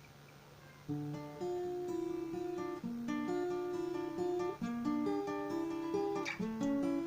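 Acoustic guitar being played, starting about a second in: single notes picked one after another over a low held bass note, a slow introduction before the singing.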